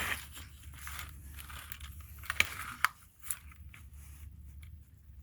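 Plastic cover of a car door latch and lock actuator assembly being handled and pried at, with rustling and two sharp plastic clicks a little past the middle.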